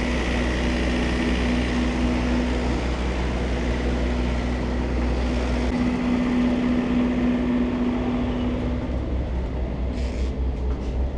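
Steady low rumble and hum of a PeruRail diesel passenger train, with a few short clicks near the end.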